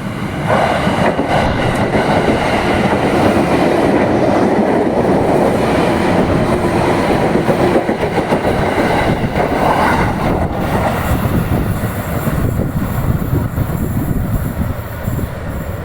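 JR 203 series electric commuter train passing close by, its wheels running on the track; the noise builds over the first few seconds, stays loud until about ten seconds in, then slowly eases off.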